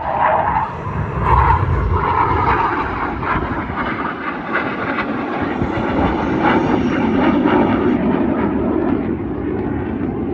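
Four BAE Hawk jet trainers flying past in formation, the noise of their Adour turbofan engines steady throughout and swelling slightly twice.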